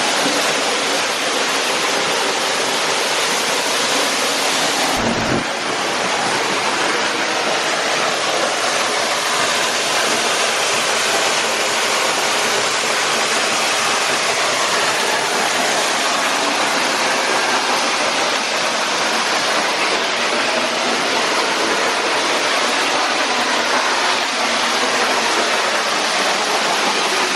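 Waterfall seen from close beneath it: a loud, steady rush of falling water, with a brief thump about five seconds in.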